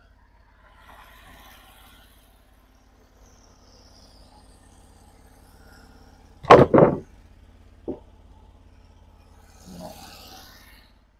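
Sawn white oak boards handled on the sawmill: two loud thuds close together about six and a half seconds in, then a lighter knock a second later.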